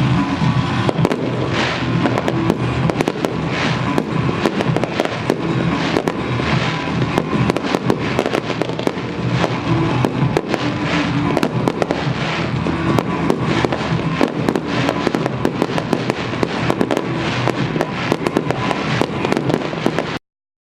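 Fireworks show: a dense run of rapid cracks and crackling bursts over show music, cutting off abruptly near the end.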